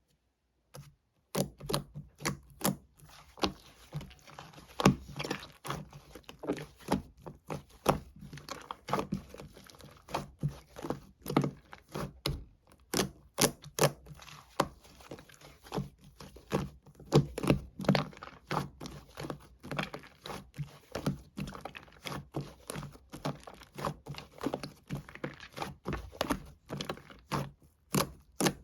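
Slime being squeezed, pressed and stretched by hand, making a run of irregular sharp clicks and pops, a few a second.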